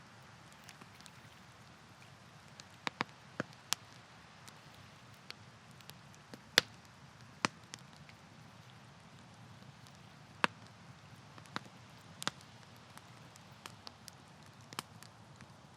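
Wood campfire crackling: sharp, irregular pops and snaps, the loudest a little before halfway, over a faint steady hiss.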